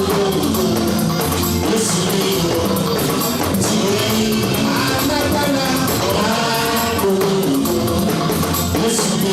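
Church gospel music: voices singing over a band with guitar and drums, loud and continuous.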